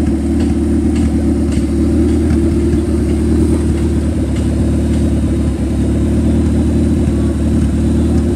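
Car engine idling steadily: a loud, even rumble with no revving.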